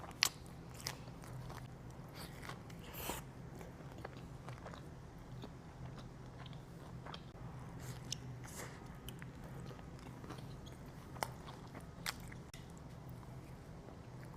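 Close-miked eating: scattered bites and chewing with crisp crunches and sharp mouth clicks, over a low steady hum.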